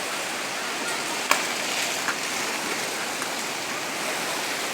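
Steady rushing water of a small river in flood after heavy rain. A single sharp click a little over a second in.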